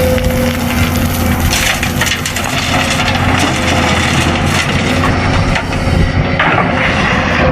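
Remote-control toy excavator running with a steady motor hum, while scraping and crunching noises come and go as it pushes material. The loudest crunching is about two seconds in and near the end.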